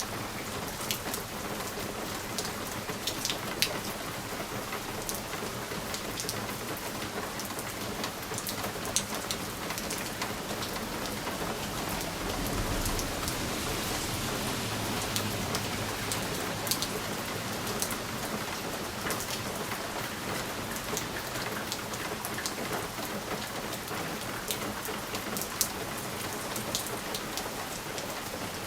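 Steady rain on a window pane: an even hiss with scattered sharp ticks of single drops striking the glass. A low rumble swells about twelve seconds in and fades a few seconds later.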